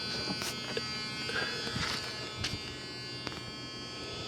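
A steady, high electrical buzz with a few faint clicks.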